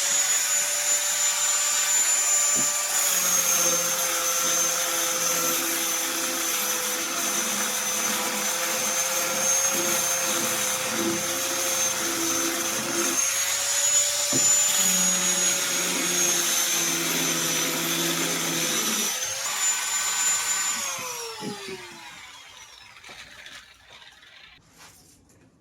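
Handheld electric power tool running at high speed, its motor whine dipping a little in pitch now and then as it takes load. It is switched off about 21 seconds in and winds down with a falling whine.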